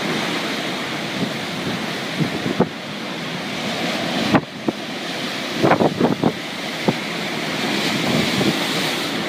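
Hurricane-force wind buffeting the microphone over crashing sea surf, a steady rush with a couple of sharp knocks.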